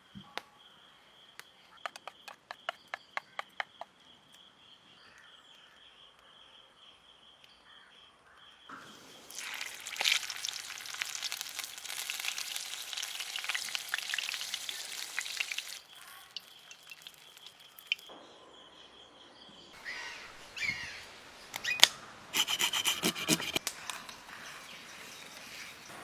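Food sizzling and crackling in hot oil in a pan for about seven seconds in the middle. Before and after it there is a steady high insect drone, with a quick run of sharp clicks near the start and a few more clicks and knocks toward the end.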